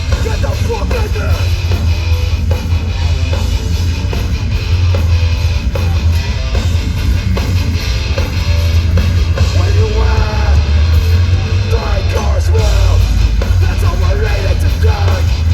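Hardcore band playing live through a loud PA: distorted guitars, bass and drum kit, heavy and bass-laden, with shouted vocals that come through more strongly in the second half.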